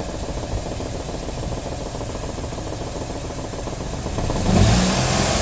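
Peugeot 208 Style idling, heard from underneath the car, with a steady rattling vibration running through the engine sound; it gets louder about four seconds in. The owner suspects looseness somewhere in the exhaust, a shaking that he also feels through the gear lever.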